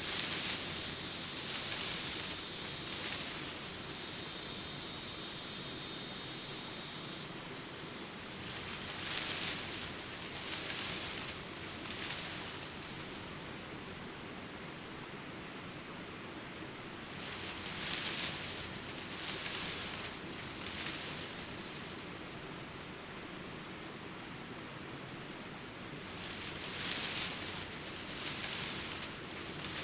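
Daytime forest ambience dominated by a steady, high-pitched chorus of crickets and other insects, with brief louder swells coming in groups of two or three every several seconds.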